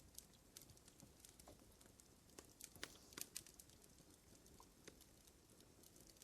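Fire crackling: faint, irregular sharp pops and snaps over a low hiss, with a denser cluster of pops about halfway through.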